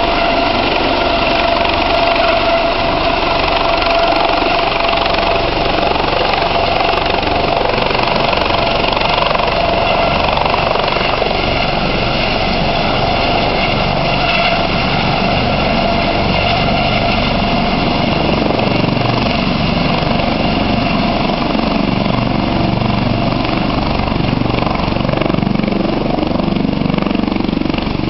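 Eurocopter AS565 Panther helicopter landing: a steady turbine whine and a high tail-rotor tone over a dense rotor rumble. The rumble grows heavier in the second half.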